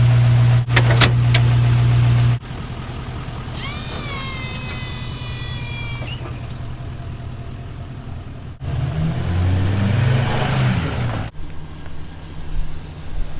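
Plow-truck machinery in several short cuts: first a loud steady hum, then a high whine that drops in pitch and holds, then a louder wavering drone.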